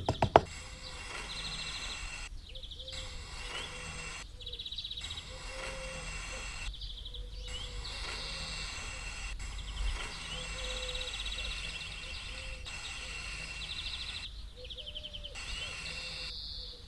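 Birds chirping in short trills that repeat every couple of seconds over a steady background hum, with several brief drop-outs in the sound.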